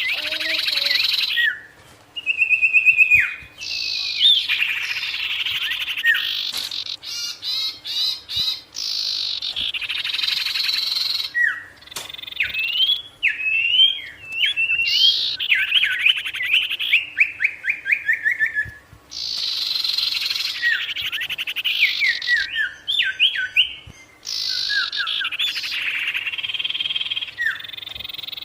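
Sirtu songbird singing vigorously: phrases of a few seconds each, mixing fast rattling trills with runs of sharp chirps that slide down in pitch, with short pauses between phrases.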